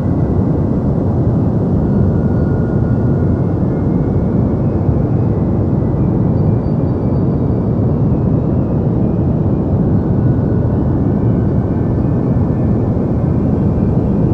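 Steady deep noise of the kind played as a sleep sound: an even, low rumbling hiss, heavy in the bass and thin in the treble, that does not change.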